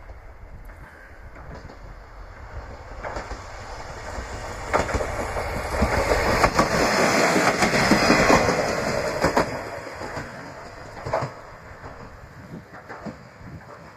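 A train passing over a level crossing. The rumble builds over a few seconds, is loudest about halfway through, and carries a handful of sharp wheel clacks over the rail joints before it fades away.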